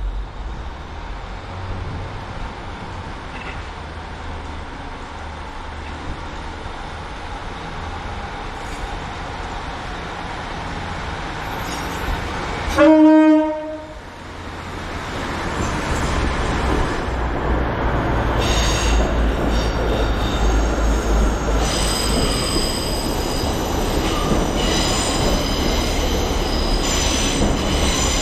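Train coming round a curve: about halfway through, one loud horn blast of about a second; then the train draws nearer, louder, with high-pitched wheel squeal from the curve.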